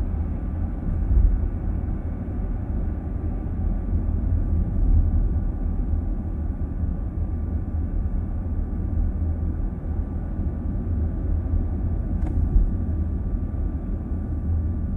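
Steady low rumble of a car in motion heard from inside the cabin, mostly tyre and road noise with the engine underneath. A single brief click comes about twelve seconds in.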